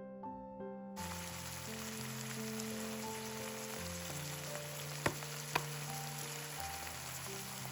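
Food sizzling in hot oil in a frying pan, starting about a second in, with two sharp clicks about five seconds in, over background music.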